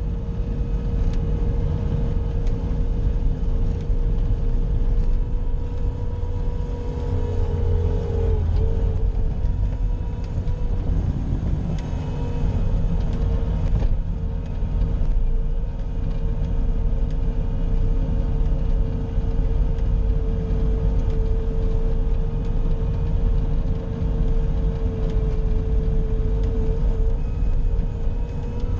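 Bobcat skid-steer loader's diesel engine running steadily under load, a low rumble with a steady whine above it. The whine dips briefly about eight seconds in and again near the end.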